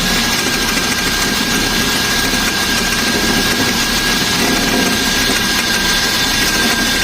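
Mercedes-Benz S300 engine idling steadily, with a thin steady whine over the running noise from the front accessory drive. The mechanic takes the noise for a rattling alternator, its bearing suspected bad.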